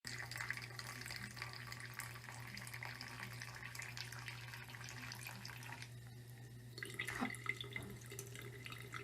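Water running steadily from a tap into a sink, over a steady low hum.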